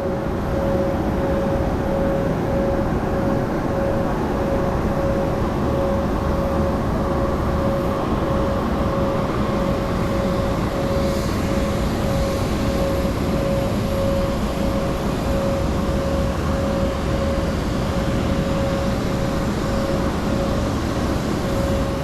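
Steady rumble of a running vehicle, with a regular beeping tone that pulses a little more than once a second.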